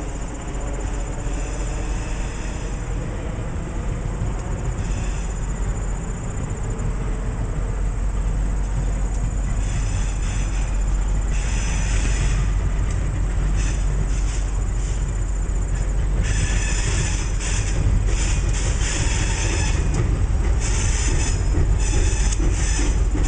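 Diesel locomotive rumbling as it approaches and rolls onto a steel railroad bridge, growing slowly louder. From about ten seconds in, short bursts of high-pitched wheel squeal come and go, more often near the end.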